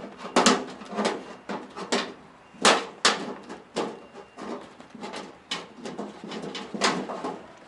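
Hand tin opener cutting into thin sheet metal stroke by stroke: a string of sharp metallic clicks and crunches at uneven intervals, about a dozen in all.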